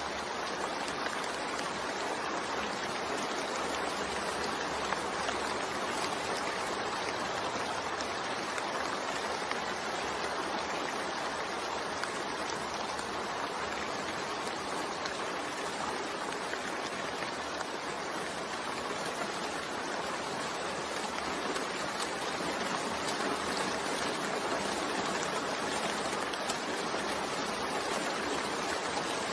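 Steady rain falling, an even wash of water noise that holds the same level throughout.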